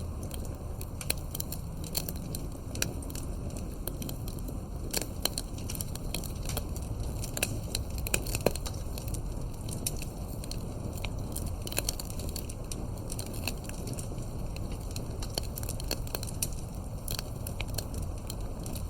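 Fireplace crackling: irregular sharp pops and snaps, several a second, over a steady low rumble.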